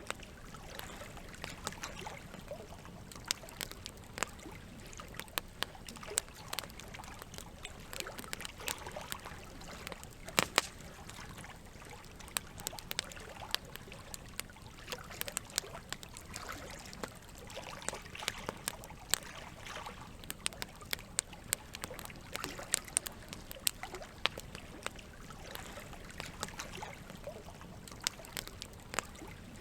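Campfire crackling, with irregular sharp pops, the loudest about ten seconds in, over a steady sound of running water.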